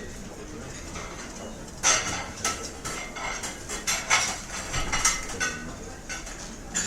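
Restaurant ambience: cutlery and dishes clinking and clattering over a low steady murmur of the room, with a busy run of clatter in the middle.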